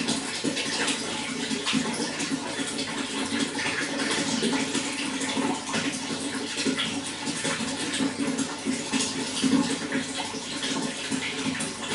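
Running water flowing steadily, a constant rushing with small, quick flickers of splashing all through.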